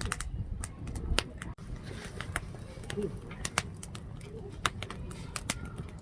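Firewood burning in a fire pit, crackling with many sharp, irregular pops.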